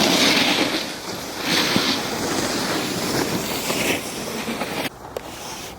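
Edges scraping and carving over packed snow during a downhill run, with wind rushing on the microphone. The hiss swells with each of several turns and drops off sharply near the end.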